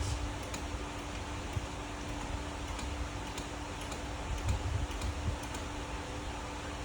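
Hand fluid pump being worked to push ATF into a manual transmission's fill hole: faint, irregular clicks of the pump strokes over a steady low hum.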